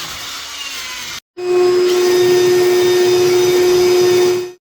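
Handheld power tool running at full speed, in two runs: the first with its pitch sagging slightly, then, after a brief break, a louder steady run with a strong constant whine that cuts off abruptly near the end.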